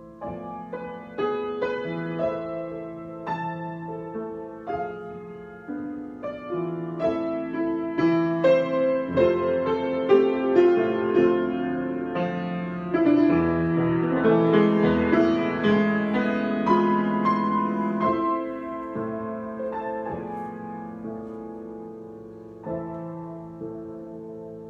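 Solo piano improvisation: chords and melody notes, building louder through the middle and then softening toward the end.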